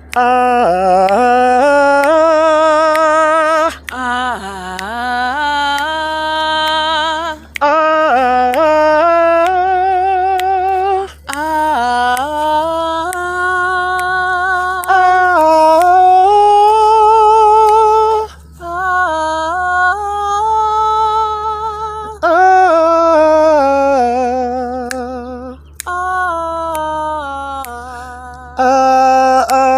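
Unaccompanied voice singing a wordless vocal warm-up exercise: phrases of notes stepping up and down, with vibrato on the held notes. The phrases are separated by short breaths.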